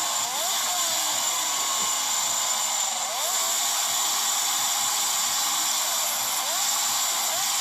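Yamaha RX two-stroke motorcycle engine running through an aftermarket under-slung exhaust, with a high buzzing whine and several quick blips of the throttle that rise in pitch, about a third of a second in, at three seconds, and twice near the end.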